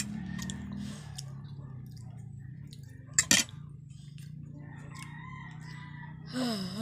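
Mouth sounds of chewing lechon, with two sharp smacks, one at the start and one about three seconds in, over a low steady hum.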